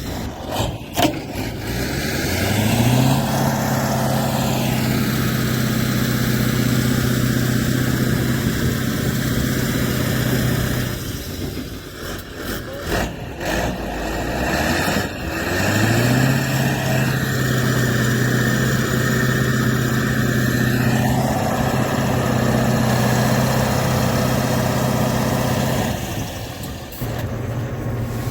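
Kirovets tractor's diesel engine revving up under heavy load twice, each time holding high revs for about eight to ten seconds before dropping back, as it strains to tow a stuck K-701. A few sharp knocks come in the lull between the two pulls.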